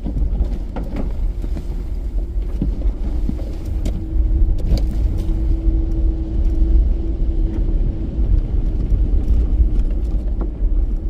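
Toyota Land Cruiser driving off-road: a continuous low rumble with a steady engine hum, broken by scattered short knocks and clatters.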